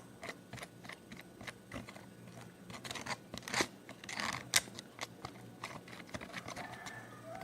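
Spoon stirring slime in a bowl: irregular clicks and scrapes of the spoon against the bowl, busiest about three to four and a half seconds in.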